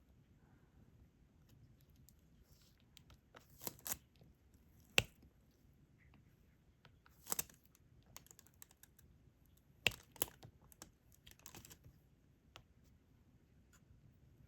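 Diamond-painting stylus picking up resin drills and pressing them onto the sticky canvas: faint, irregular clicks and taps, a few sharper ones about five and ten seconds in, with short scratchy rustles between.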